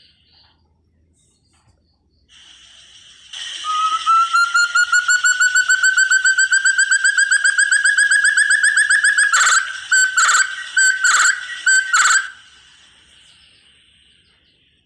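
Forest partridge (puyuh hutan, 'burung terung') calling: a fast run of whistled notes, about five a second, climbing slowly in pitch, ending in five louder, separate notes. A faint steady high hiss sits behind it.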